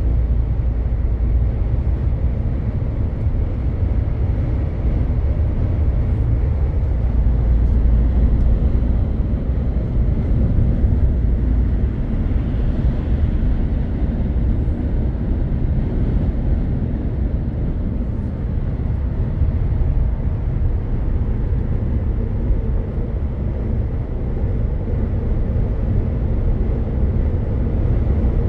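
MAN truck driving at steady speed on the motorway: diesel engine drone and road rumble, even throughout.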